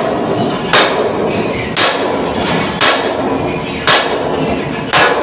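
Hammer striking steel five times, evenly about a second apart, each blow ringing briefly over a steady background noise.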